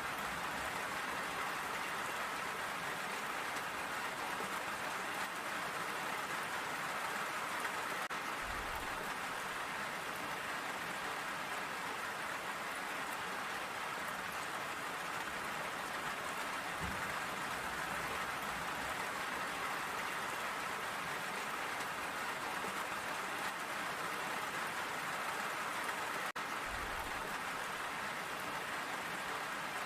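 Steady rain falling, an even hiss of drops on surfaces, with two brief low thumps, one about a third of the way in and one near the end.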